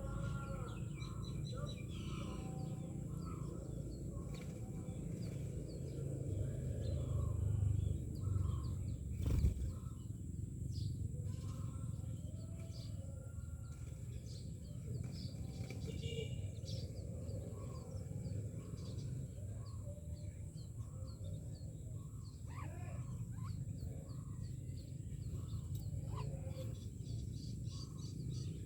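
Myna birds calling: a long run of short chirps, whistles and chattering calls, over a steady low rumble, with one sharp knock about nine and a half seconds in.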